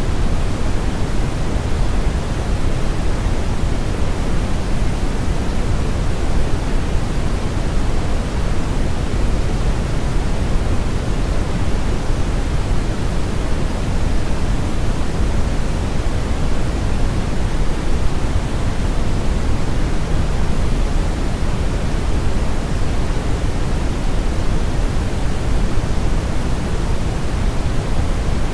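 Brown noise: steady, unchanging random hiss with most of its energy in the low end, a deep rumble like a strong river current, with the high frequencies rolled off.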